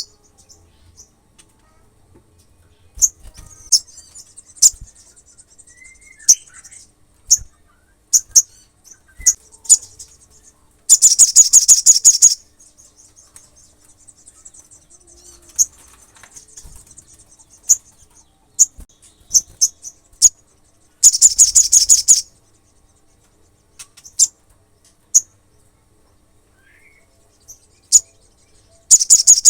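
Olive-backed sunbird singing: loud, very fast high trills about a second long, repeating roughly every ten seconds, with sharp high chips and soft twittering between them.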